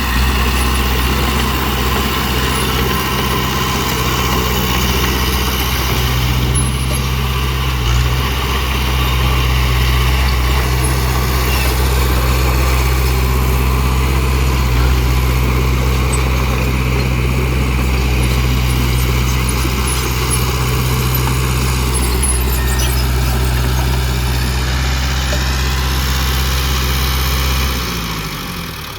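Heavy dump truck's diesel engine running steadily at a low, even pitch. Near the end the engine note falls in pitch and the sound drops away.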